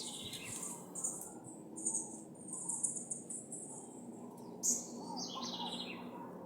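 Small birds chirping and trilling in quick high-pitched phrases, with a sharp call about 4.7 seconds in, over a steady low hum.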